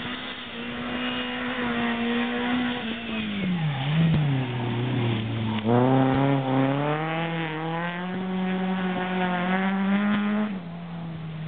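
Bilcross race car engine running at high revs, dropping in pitch about three seconds in as it comes off the throttle. It revs hard again around six seconds and climbs steadily, then falls away sharply near the end.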